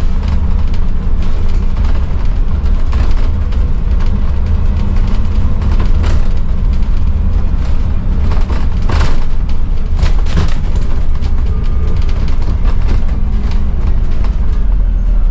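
Scania N280UD double-decker bus on the move, heard from on board: a loud, steady low engine and road rumble, with a few sharp knocks and rattles from the body.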